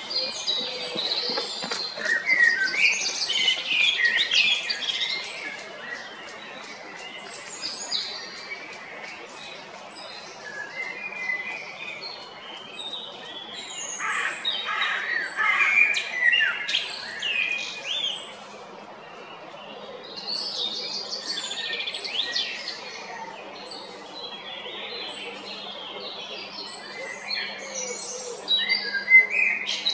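Male common blackbird singing: phrases a few seconds long of varied, gliding whistles, with pauses of several seconds between them.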